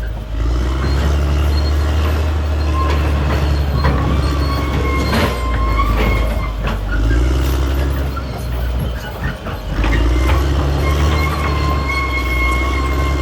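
Caterpillar D6R XL bulldozer at work: its diesel engine running under changing load, with a thin high squeal and knocks from the steel tracks and undercarriage.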